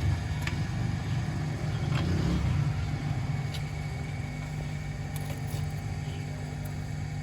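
Toyota GLi car engine idling steadily, with a few faint light clicks over it.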